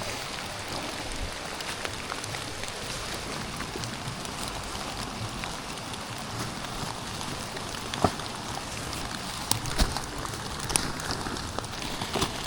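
Steady rain falling, with a few sharp knocks or clicks in the second half.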